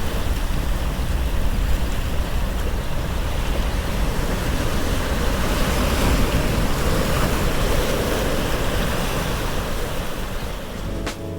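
Ocean surf washing with wind buffeting the microphone, a steady rushing noise with a heavy low rumble.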